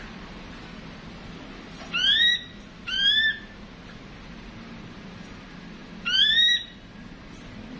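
Ashy drongo calling: three short rising whistled notes, two close together about two seconds in and a third about six seconds in, over a faint steady low hum.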